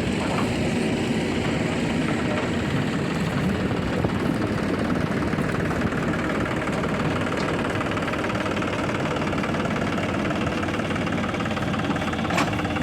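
Heavy diesel engine of earthmoving machinery running steadily, with a single short clank near the end.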